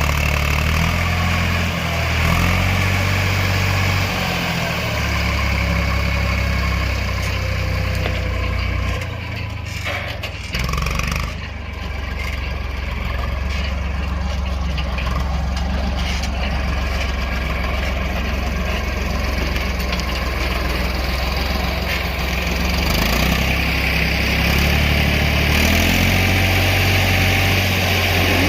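Tractor engine running steadily, its speed stepping up and down as the loader works, with a brief drop in level about ten seconds in.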